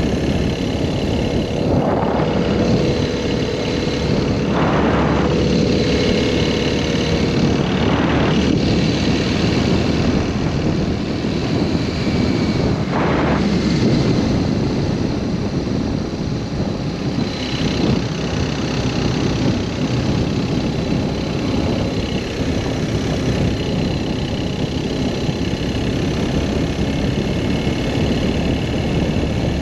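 BMW R1200S boxer-twin motorcycle engine running steadily while under way, mixed with wind rush, with a few brief louder swells along the way.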